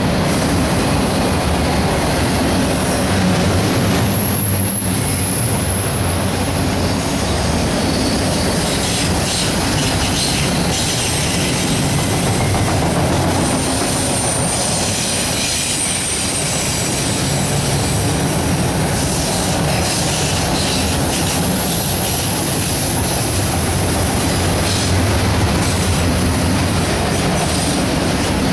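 Enclosed autorack freight cars rolling past close by: a steady, loud noise of steel wheels on the rails with a rhythmic clatter, and thin, high wheel squeal that comes and goes several times.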